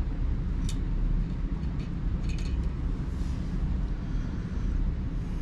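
Small steel parts (nuts and lock washers) clicking lightly against each other a few times over a steady low rumble.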